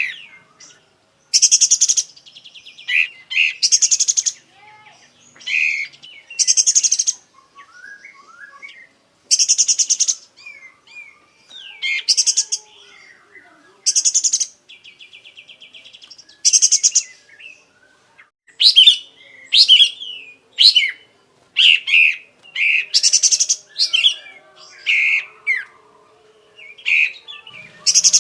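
Kapas tembak bulbul singing: loud, short, harsh notes repeated about every one to two seconds, with softer chirps and whistles between.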